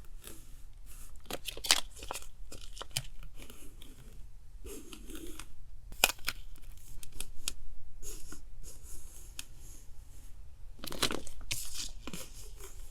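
Paper being handled at a desk: rustling, crinkling and tearing, with sharp ticks and snaps spread through, and a louder tearing stretch near the end.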